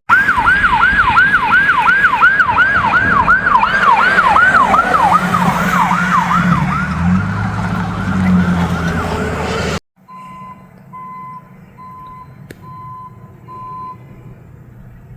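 Emergency vehicle siren in a fast yelp, rising and falling about three times a second, with the vehicle's engine underneath. It cuts off suddenly about ten seconds in, and a quieter vehicle backup alarm beeps about once a second.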